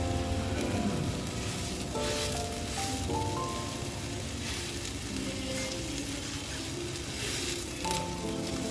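Boneless chicken thighs sizzling as they pan-fry, the hiss swelling a little in places, under background music with a simple stepping melody.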